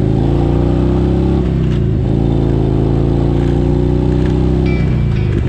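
Harley-Davidson motorcycle's V-twin engine pulling away under acceleration, its pitch climbing steadily and then dropping sharply twice as the rider shifts up through the gears.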